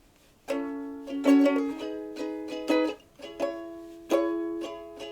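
Ukulele strumming a slow run of chords, starting about half a second in.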